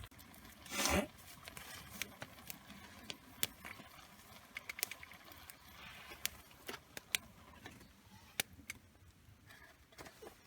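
Campfire crackling: burning wood gives off irregular sharp pops and snaps, with a louder, longer rush about a second in.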